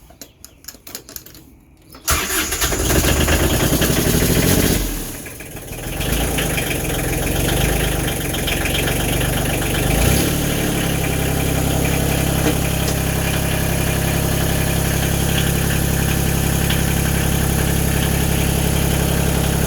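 Kubota L295DT tractor's diesel engine cold-started after sitting unused for a couple of months. A few light clicks, then it is cranked about two seconds in, dips briefly near five seconds, catches and runs unevenly, and settles into a steady idle about eleven seconds in.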